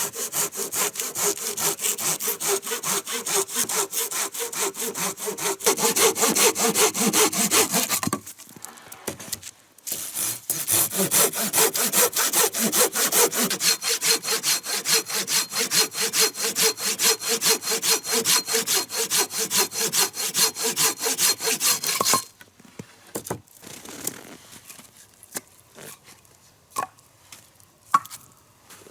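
Hand saw, a Samurai, cutting through wood in quick, even strokes. It stops for about two seconds a third of the way in, saws on, then stops about three-quarters of the way through. A few light knocks follow near the end.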